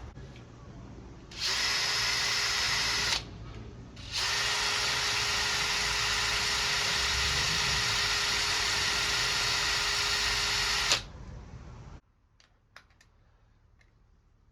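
Small high-speed power tool with a tungsten-carbide bit running in two bursts with a steady whine, a short one of about a second and a half, then after a brief pause a longer one of about seven seconds that cuts off suddenly. It is grinding the slots of the contact-breaker (points) backplate longer to give more ignition-timing adjustment. A few faint clicks follow.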